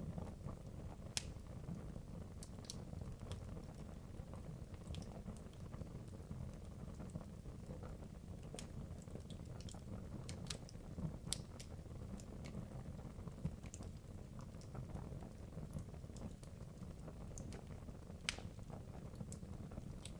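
Wood logs burning in a fireplace: a steady low rush of flame with scattered sharp crackles and pops, a few of them louder than the rest.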